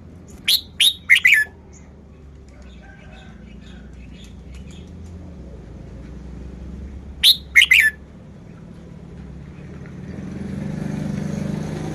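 Red-whiskered bulbul singing two short song phrases about seven seconds apart, each of three or four quick, loud notes that drop steeply in pitch. Faint chirps fall between the phrases, and a steady hiss rises in the background near the end.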